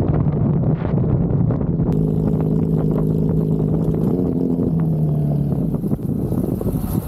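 A vehicle driving: steady road and wind noise with an engine droning at a constant pitch, which shifts once about four seconds in.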